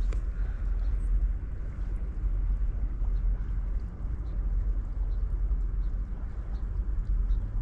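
Steady riverside ambience: a strong low rumble with an even hiss of running water, and faint scattered high ticks.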